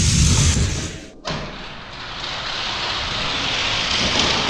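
Die-cast toy cars rolling fast down a plastic drag-race track: a steady rolling rumble and rattle. It breaks off about a second in and resumes as a softer steady rush.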